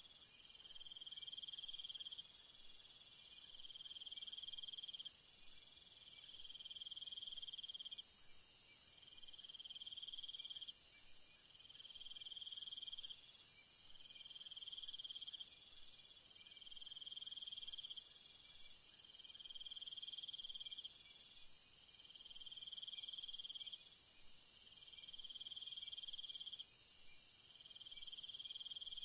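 Night insect chorus in jungle: a steady high-pitched shrill from many insects, with one lower insect call trilling in repeated bursts of about two seconds, each followed by a short gap.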